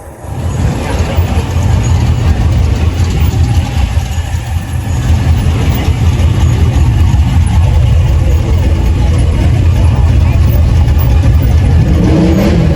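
A car engine running with a loud, steady low rumble that starts suddenly, then revs with a rising pitch near the end.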